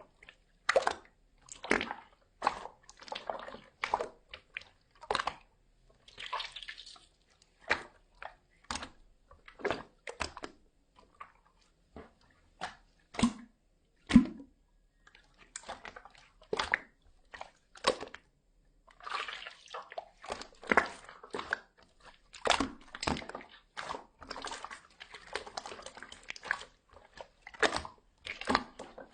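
Slime being squished, pressed and stretched by hand, making irregular wet clicks, pops and squelches.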